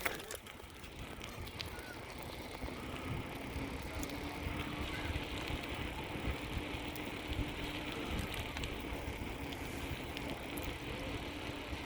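Bicycle riding along: steady tyre and road noise with light ticks and rattles, and a faint steady hum that sets in a couple of seconds in.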